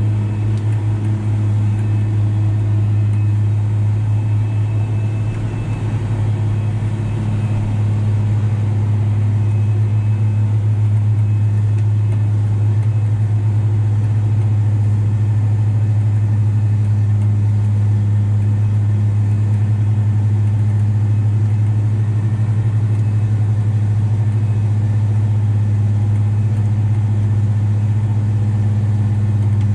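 Valtra T234 Direct tractor's six-cylinder diesel engine running at a steady working speed, a constant low drone that dips slightly about six seconds in.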